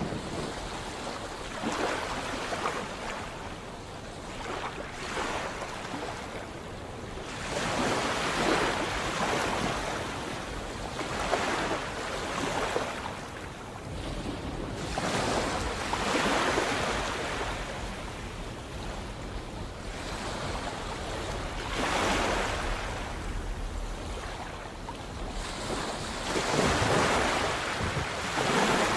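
Sea waves breaking and washing in, the noise swelling and falling back in surges every few seconds.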